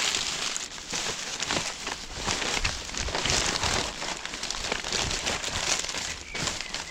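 Rummaging by hand through a box of discarded things: an irregular run of crinkling and rustling, with many small knocks and clicks.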